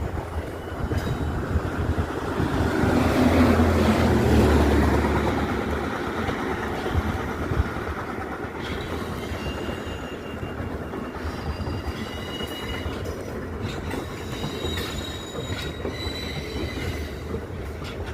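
A diesel-hauled train passing close by: the locomotive's engine hum swells to its loudest a few seconds in, then the wagons roll past with clicking over the rail joints and high-pitched wheel squeal.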